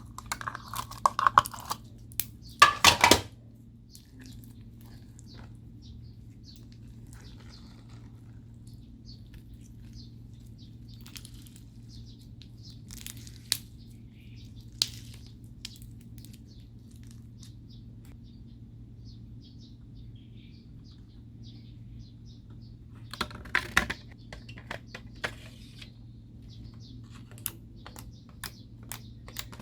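Slime being handled and mixed, giving scattered small clicks and pops, with two louder bursts of sticky crackling, one about three seconds in and one near the end. A steady low hum sits underneath.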